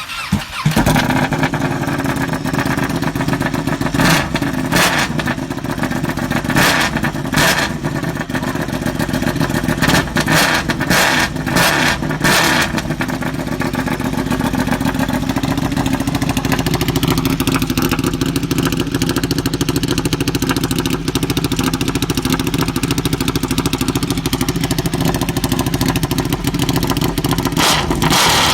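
Ducati Panigale 1199's V-twin running through a custom exhaust with 3D-printed Inconel 625 parts. It idles with a string of quick throttle blips in the first half, then the revs rise slowly, hold for several seconds and ease back down to idle.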